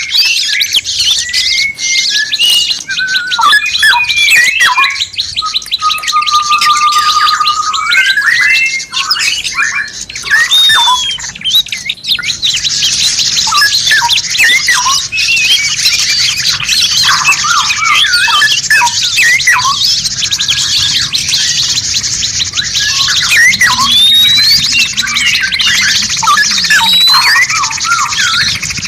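Dense mix of songbird calls overlapping without a break: fast chattering, squawks and short whistled notes. About six seconds in, one long steady whistle rises at its end. From about twelve seconds in, a thick high chatter fills in behind the calls.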